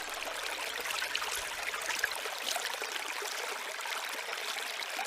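Running water of a stream, a steady wash with no music over it.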